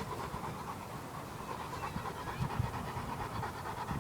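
Dog panting hard and fast, out of breath and tired from chasing a ball.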